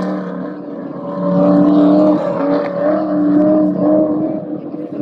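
A truck engine revving hard on a chassis dyno, held at high revs in pulls of about a second with short dips between. It gets louder about a second in.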